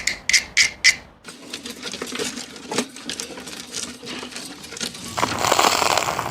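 A quick run of about five sharp taps with a bright ring, then scattered light clicking and rattling of small objects being handled, and a louder rough scraping near the end.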